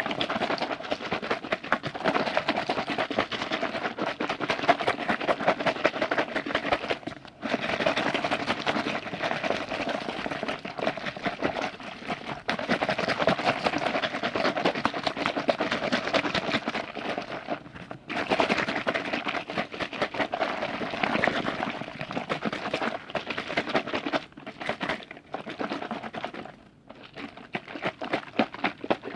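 Close-miked liquid being sloshed and worked by hand: a dense, continuous crackle of small wet clicks and bubbles, broken by a few short pauses and growing choppier near the end.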